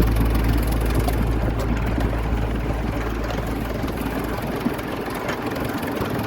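A miniature railway locomotive running with a steady low rumble that slowly fades, with a few faint clicks near the end.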